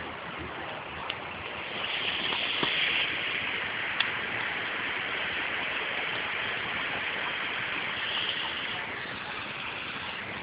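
A large bonfire, burnt down, burning with a steady rushing hiss and a few sharp crackling pops, the clearest about four seconds in.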